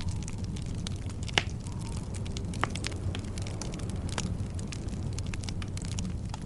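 Wood fire burning in a fireplace: a steady low rumble of flames with constant light crackling and two sharper pops, about a second and a half in and again near three seconds.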